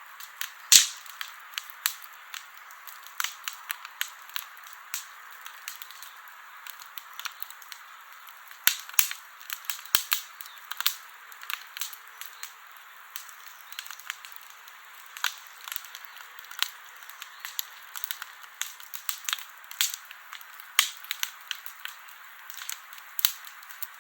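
Campfire of burning wood crackling: irregular sharp pops and snaps over a steady hiss, the loudest pop just under a second in.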